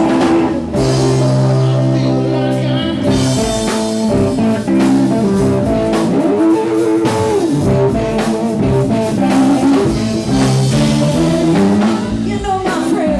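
Live blues-rock band playing, led by electric guitar over bass and drum kit, with a bent guitar note in the middle.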